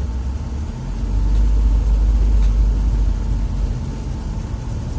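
UAZ Farmer's engine and drivetrain heard from inside the cab while the vehicle creeps forward in slow traffic. The low engine sound grows louder about a second in and eases off again after about three seconds.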